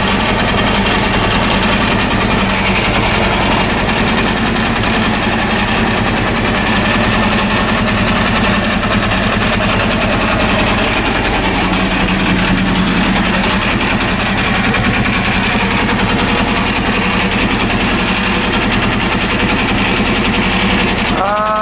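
Honda CB400 inline-four engine running steadily at idle, with a strange mechanical noise from the left side of the engine that the owner thinks is not good. He takes it to come from the low idle rpm and suspects the carburetor set.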